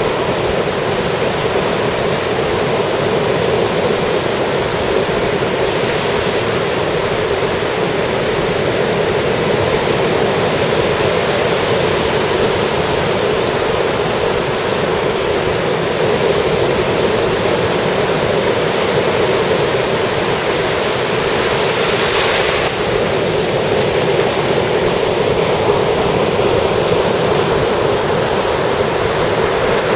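Ocean surf breaking and washing up the beach as a steady rush of water, with one wave hissing a little brighter about two-thirds of the way through.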